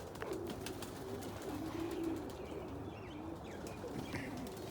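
Domestic pigeons cooing: low, wavering coos overlapping one another, with scattered faint clicks.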